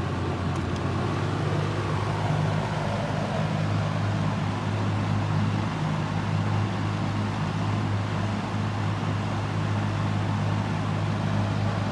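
Monarch Aire ML20R box fan running steadily on its high speed: a steady low motor hum under the rush of air from the blades. The motor has a slight rattle, which the owner puts down to worn thrust washers.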